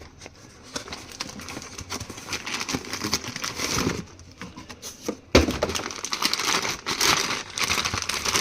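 Crinkling, crackling handling noise, with a single sharp knock about five seconds in.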